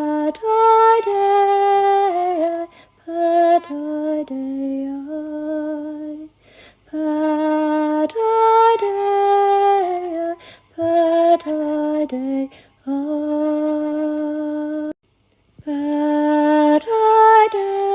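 A woman's voice singing slow, chant-like phrases of long held notes. Each phrase steps up and then glides back down, with short breaths between phrases. No other instrument is heard.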